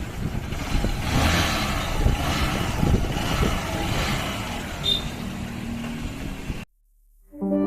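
A motor vehicle engine running with irregular knocks and clatter. It cuts off abruptly near the end, and soft sustained music begins.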